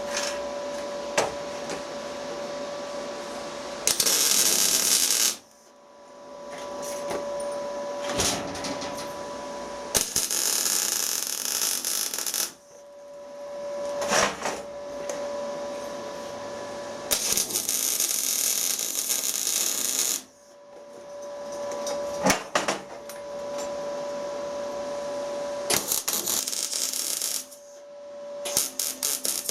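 Arc welding a washer and nut onto a broken stud to build up something to grip and turn it out: four short welding runs, each a crackling hiss of about one to three seconds. Between the runs there is a steady hum and a few sharp knocks.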